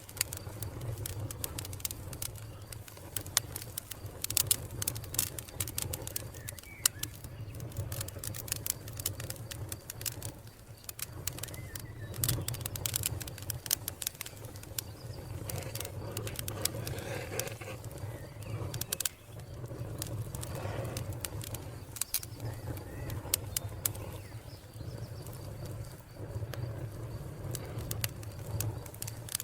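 Wood fire crackling, with frequent sharp pops over a steady low rumble. A bird calls softly in the background through the middle stretch.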